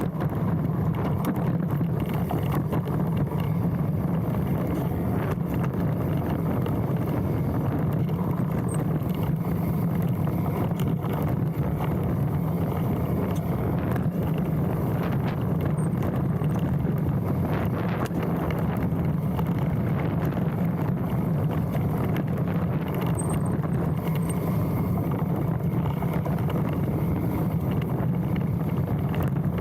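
Mountain bike riding fast down a dirt trail, heard from a handlebar-mounted camera: a steady rush of wind on the microphone and tyre noise, with frequent small knocks and rattles as the bike goes over bumps. A few very short high squeaks from the disc brakes come at braking points.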